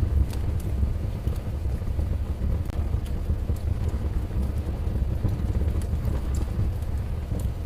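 Wood fire burning in a fireplace: a steady low rumble with sharp crackles and pops at irregular intervals, roughly one or two a second.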